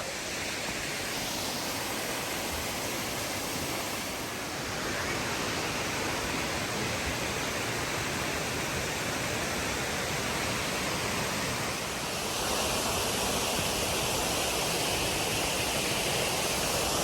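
Steady rushing of a waterfall or creek cascade, an even wash of water noise that grows slightly louder about twelve seconds in.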